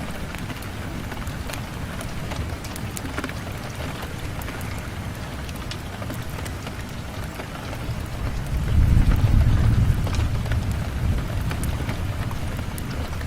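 Steady rain with scattered sharp drop ticks, and a low rumble of thunder that swells about two-thirds of the way through.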